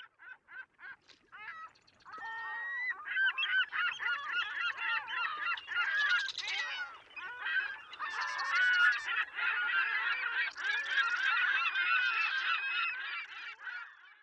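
A flock of birds calling: a few separate calls at first, then from about two seconds in many overlapping calls that bend up and down in pitch.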